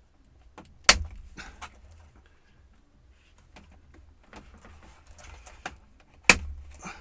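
Plastic clips of a Compaq F700 laptop's case panel snapping loose as it is pried off: two sharp cracks, about a second in and again near the end, with light plastic scraping and handling between.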